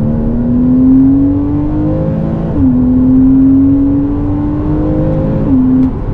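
Porsche 981 Cayman S 3.4-litre flat-six, heard from inside the cabin, accelerating hard through the gears. The engine note rises, drops at a quick upshift about two and a half seconds in, climbs again, and drops at a second upshift near the end; the gears are changed early, well short of the red line.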